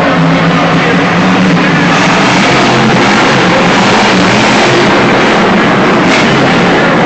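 Monster truck engine running loud and fairly steady: a low, even drone under a wide wash of noise.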